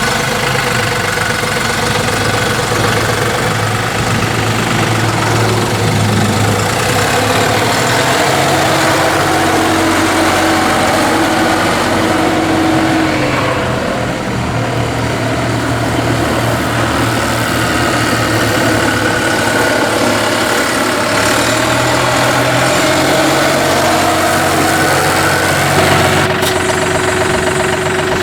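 John Deere 5055E tractor's three-cylinder turbocharged diesel engine running, its note rising and falling a few times.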